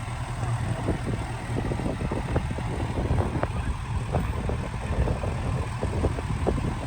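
Pickup truck running as it drives on beach sand: a steady low rumble with scattered short clicks and knocks.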